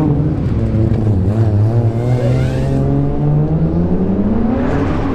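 Turbocharged 2JZ straight-six engine of a 700 hp S14 drift car under throttle. The revs hold fairly steady with small wobbles, then climb over the last couple of seconds.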